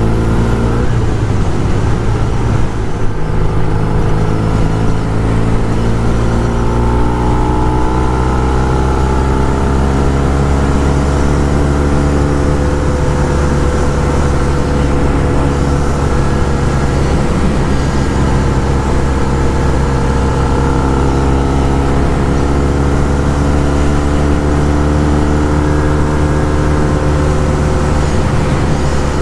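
1974 Norton 850 Commando's air-cooled parallel-twin engine running on the move. Its pitch dips right at the start, climbs slowly over several seconds as the bike gathers speed, then holds nearly steady at cruise.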